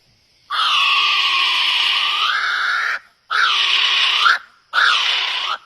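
A bird giving three loud, harsh, raspy calls: one long call of about two and a half seconds, then two shorter ones of about a second each.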